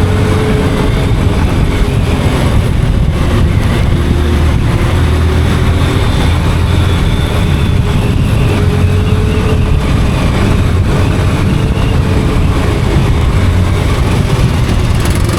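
Yamaha FZ's single-cylinder engine running steadily while the motorcycle is ridden, under a continuous rush of wind and road noise.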